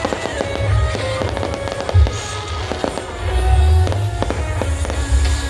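Fireworks going off in quick succession, low booms mixed with sharp bangs and crackles, with a sharp loud bang about two seconds in. Background music plays throughout.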